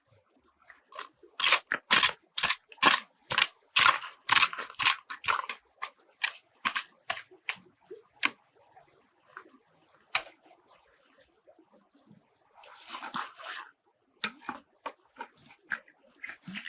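A run of sharp knocks, about two to three a second for several seconds, then thinning out, with a brief rustling noise about thirteen seconds in.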